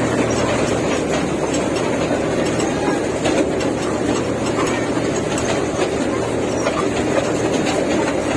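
Park toy train running along its track: a steady running noise with a low hum and faint clicks from the wheels.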